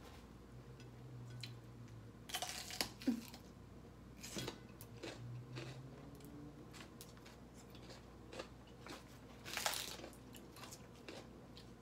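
A person chewing and biting crunchy food, with a few louder crunches about two and a half, four and a half and ten seconds in.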